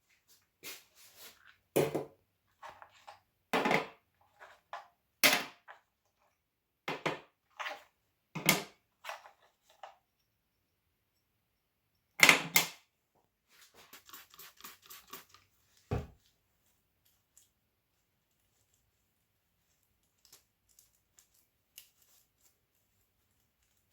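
Metal parts and hand tools being handled while working on an old BMX bike: scattered sharp clanks and knocks, a quick run of small clicks about two-thirds of the way through, and one dull thump just after.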